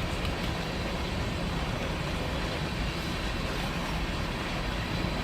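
Freight train cars rolling past, a steady low rumble of wheels on the rails as the tail end of a long train goes by.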